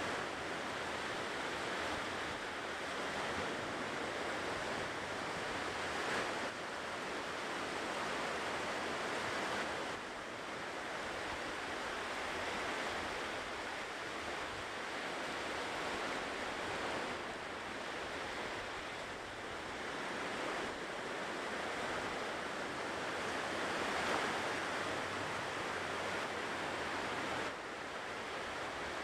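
Ocean waves washing on a shore, a steady rush of surf that swells and eases every few seconds.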